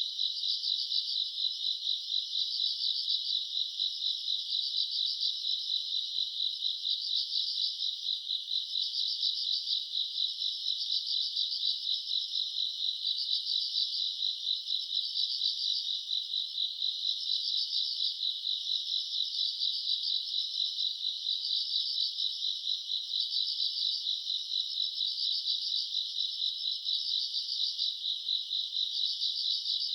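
Chorus of grass insects on a summer night: continuous high-pitched trilling that swells and eases in a repeating pattern every second or two.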